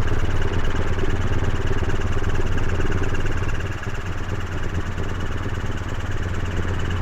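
Helicopter in flight, heard from the cockpit: steady engine and rotor drone with a strong low hum, slightly quieter from about three and a half seconds in.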